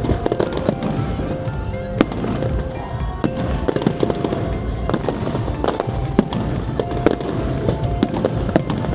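Fireworks going off in quick succession: many sharp bangs and crackles, the sharpest about two seconds in, with music playing along.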